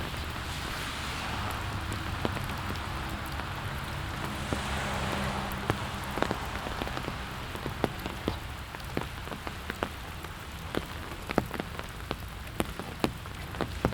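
Steady rain hissing on the ground, with sharp taps of large drops falling close by from about halfway through.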